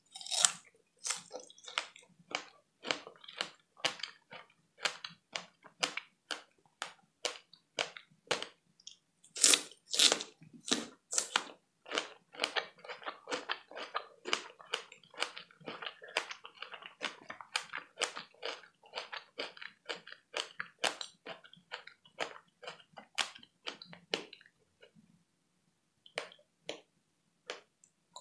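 A large fresh strawberry bitten and chewed close to the microphone: a sharp bite right at the start, then a long run of rapid chewing clicks and mouth smacks, loudest about ten seconds in, thinning out and pausing briefly near the end.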